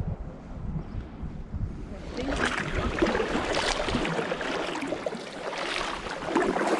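Kayak paddles dipping and splashing in the sea, with water trickling off the blades. The splashing starts about two seconds in, after a low wind rumble on the microphone.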